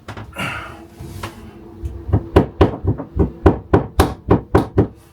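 Hammer blows in a quick, even series of about a dozen strikes, roughly four a second, starting about two seconds in, after a short scrape.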